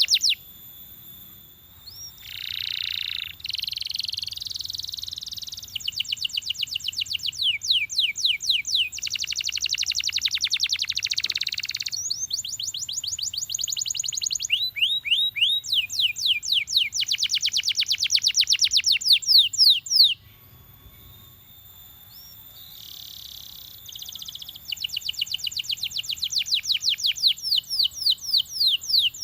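Belgian canary singing: fast trills of rapidly repeated, downward-sweeping notes and denser rolling phrases, broken by two short pauses.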